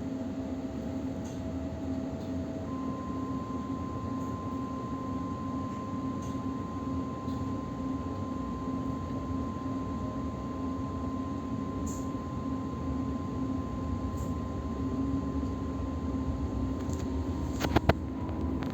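Electric commuter train running at speed, heard from inside: a steady rumble with a thin steady whine that steps up in pitch a few seconds in. A couple of sharp clacks near the end.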